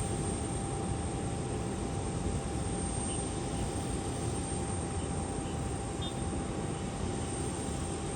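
Aircraft engines running steadily at an airport: a continuous rumble with a thin, steady high whine over it.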